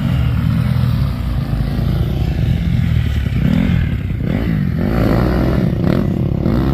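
Dirt bike engine revving, its pitch rising and falling several times.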